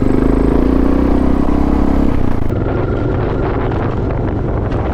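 Suzuki DR650's single-cylinder four-stroke engine running under steady throttle, then easing off a little after about two seconds.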